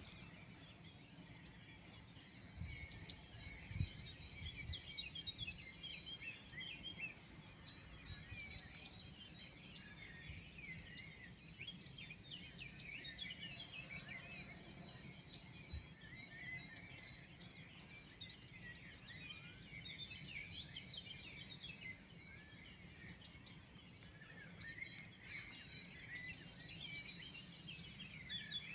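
Many small birds chirping and twittering at once, a dense, overlapping chorus of short high calls, over a faint low rumble.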